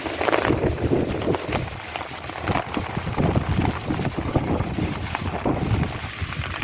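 Strong storm wind buffeting the microphone in uneven rumbling gusts, with heavy monsoon rain falling.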